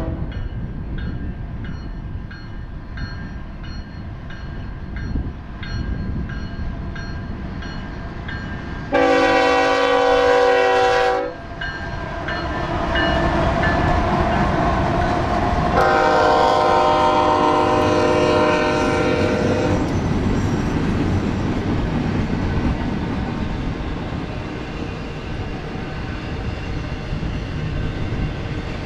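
Freight train passing close by: the diesel locomotives' air horn sounds a short blast about nine seconds in and a longer one about sixteen seconds in, over the engines' rumble as the lead units go by. The horn is followed by the steady rumble and clatter of double-stack container cars and autorack cars rolling past.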